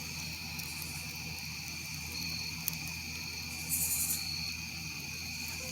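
Night insects trilling steadily at several high pitches, over a low steady hum. A single sharp click comes a little over halfway through, and a short burst of high hiss about four seconds in.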